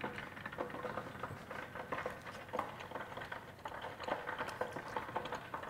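Chewing a crisp-coated, deep-fried homemade chicken nugget: soft, irregular crunching and mouth clicks that run on steadily.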